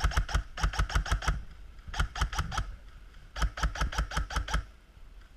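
Airsoft electric rifle firing on full auto in three quick bursts of rapid sharp shots; the last burst stops about a second before the end.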